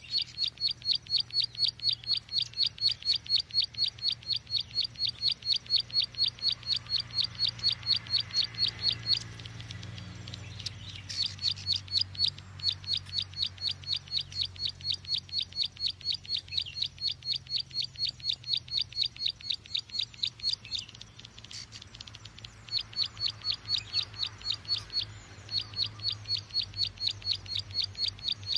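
Lure call for small field songbirds such as prinias and cisticolas (ciblek, cici): a fast, even series of short high chirps, about four or five a second, broken off twice for a second or two. A faint low hum runs beneath.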